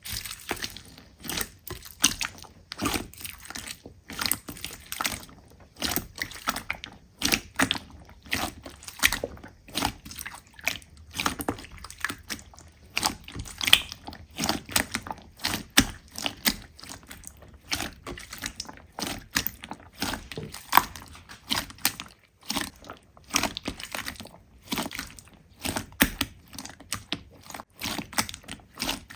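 Slime being squeezed and pressed by hand: a continuous run of small wet pops, clicks and crackles, several a second and uneven in strength.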